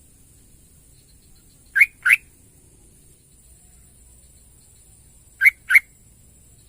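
Sooty-headed bulbul calling: two quick pairs of short, loud notes, one pair about two seconds in and the other near the end.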